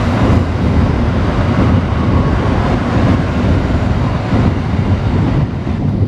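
N700A shinkansen train running past close by as it pulls out of the station: a loud, steady rumble and rush of wheels and air. The higher hiss eases near the end as the last car goes by.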